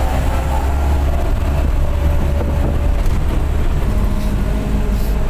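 Mitsubishi bus driving along: a steady deep engine and road rumble with no break.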